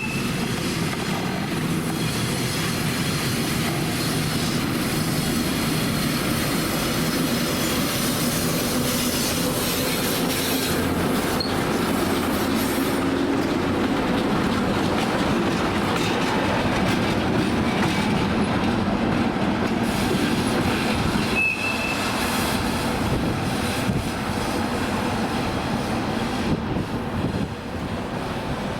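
A train running past on the tracks, its wheels rolling over the rails with a steady, loud noise, with a brief high squeal of wheel on rail a little past the middle.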